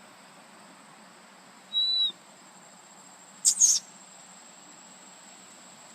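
Small bird chirping twice: a short clear whistled note about two seconds in, then a brief harsh, rasping chirp about a second and a half later. A steady thin high-pitched insect-like whine runs underneath.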